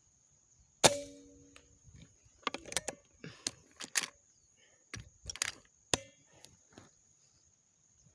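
A PCP air rifle fires a 13-grain slug: one sharp crack about a second in, with a brief metallic ring after it. It is followed by a scatter of quieter clicks and knocks.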